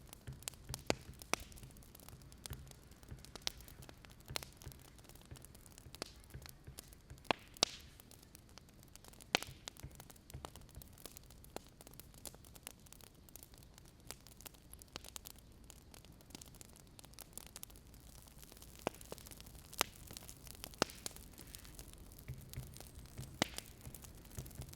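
Wood fire crackling, with irregular sharp pops and snaps over a soft hiss and a low hum.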